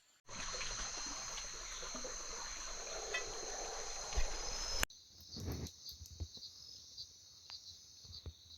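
A chorus of insects trilling steadily in two high bands over a broad hiss. About five seconds in it cuts to a quieter stretch where the insect trilling goes on with faint scattered clicks.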